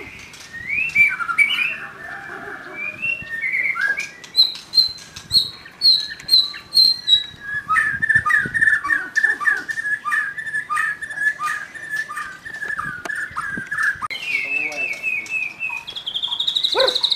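Young white-rumped shama singing a loud, varied song: runs of rapid repeated notes, some high and some lower, with sharp clicks between them and fast trills near the end.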